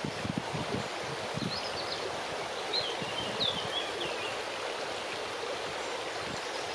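Strong wind rushing steadily through the foliage of a large tree, with irregular low gusts buffeting the microphone. A bird chirps briefly a few times in the middle.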